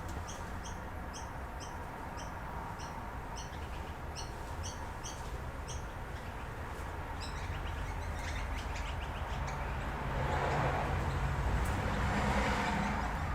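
A small bird chirping in a quick series of short high notes, which stop about halfway through. Then a rustling, handling noise builds up and is loudest near the end, over a low steady hum.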